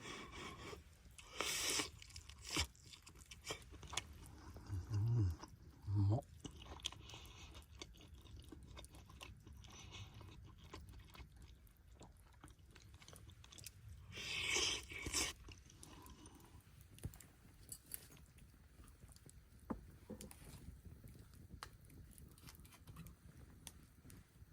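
Someone eating, with crunching bites and chewing in short bursts; the loudest crunches come about a second and a half in and again about two-thirds of the way through, with a couple of dull thuds in between.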